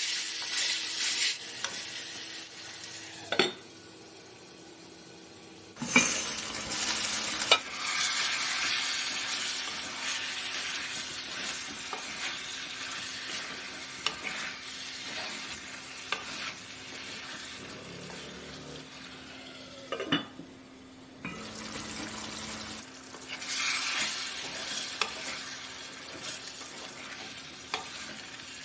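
Chicken pieces sizzling as they fry in a pan, stirred with a spoon that clinks and scrapes against the pan now and then. The sizzle drops away abruptly twice for a couple of seconds.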